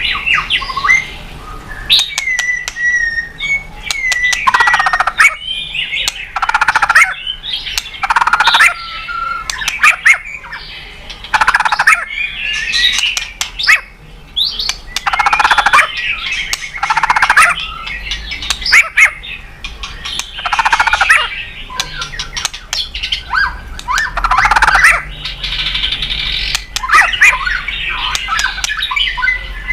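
White-rumped shama (murai batu) singing continuously: loud, varied phrases of clear whistles and harsh, scratchy notes, a new phrase every second or two. The song is full of mimicked calls of other birds.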